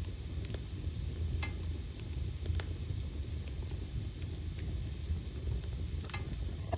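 Log fire burning in a fireplace: a steady low rumble and hiss of the flames, with scattered sharp crackles and pops from the burning wood, about one every second.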